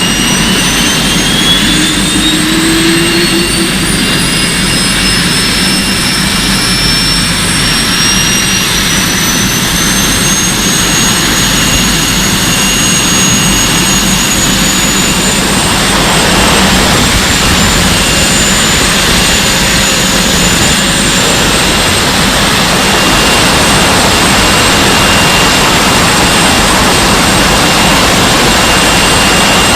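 A motor running at high speed with loud rushing air. Its high whine climbs in pitch over the first few seconds, then holds steady.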